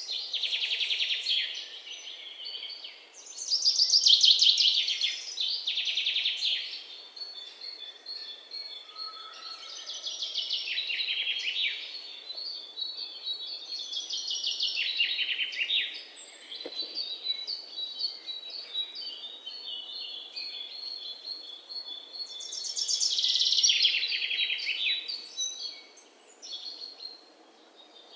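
Songbirds singing in rapid trilled phrases that come every few seconds, with a thin, steady high note held between them.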